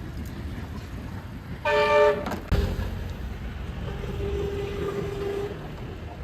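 A loud horn-like tone sounds once for about half a second, followed by a sharp knock; a fainter steady tone comes in later.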